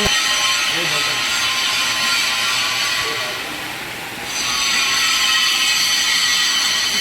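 Stick (SMAW) arc welding with a 7018 low-hydrogen electrode on steel pipe: a steady crackling, sizzling hiss. It briefly drops away a few seconds in and then picks up again.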